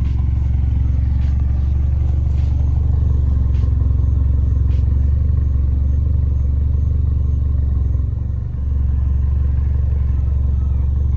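A turbocharged car engine running steadily with a deep, even rumble, dipping briefly about eight seconds in.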